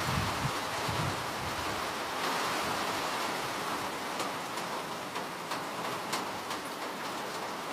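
Steady rain falling: an even hiss with occasional sharper drop ticks, and a brief low rumble in the first second.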